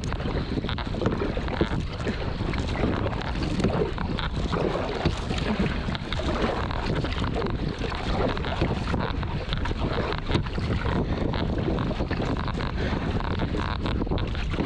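Steady wind rumbling on the microphone, mixed with water sounds from a kayak moving on the river.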